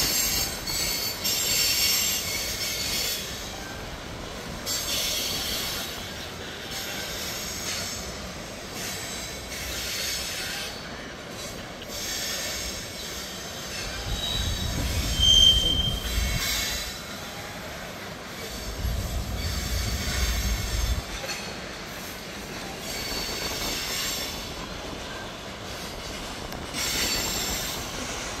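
Freight train of hopper cars rolling past, steel wheels squealing on the rails in high ringing waves that come and go, with a short sharper squeal about halfway through. Two low rumbling stretches come past in the middle.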